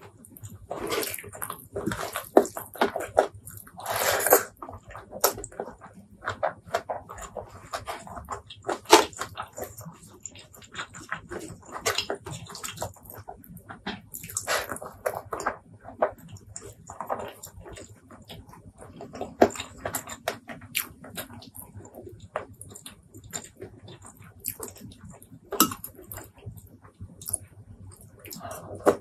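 Close-miked eating sounds: wet chewing and lip smacking over mouthfuls of curried rice eaten by hand, a steady string of short smacks and clicks.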